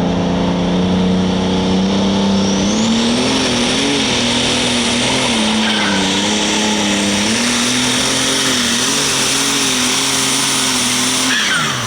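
Turbocharged, alcohol-burning super stock pulling tractor engine at full throttle under load, its note wavering up and down with a high turbo whistle climbing in a few seconds in and holding. Near the end the engine note and whistle fall away sharply as the throttle is cut.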